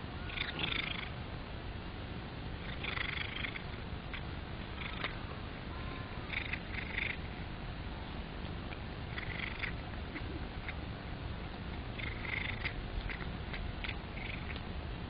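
A domestic cat purring steadily, close up, with short scratchy sounds every few seconds.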